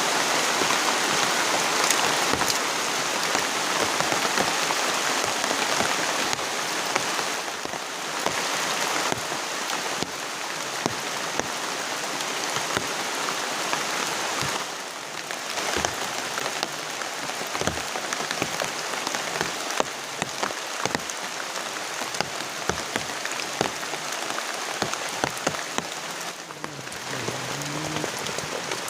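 Heavy rain falling steadily on a flysheet shelter, with many sharp drips striking close by.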